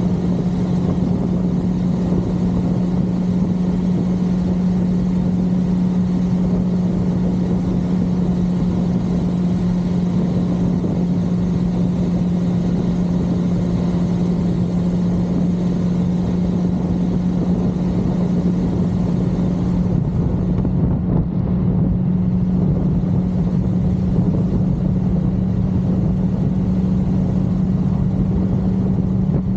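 1982 Suzuki GS550L's air-cooled inline-four engine running steadily at cruising speed under wind rush on the microphone. The engine note rises slightly about two-thirds of the way through.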